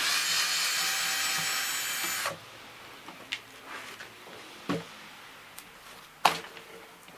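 Electric screwdriver motor running for about two seconds as it spins out screws, then stopping abruptly, followed by a few light clicks of plastic housing parts being handled.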